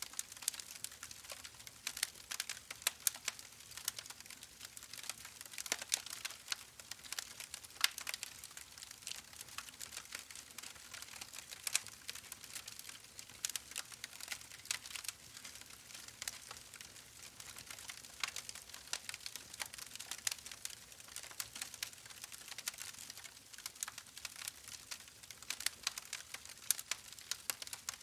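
Wood fire burning in a fireplace, crackling: irregular sharp pops and snaps, several a second, over a soft hiss.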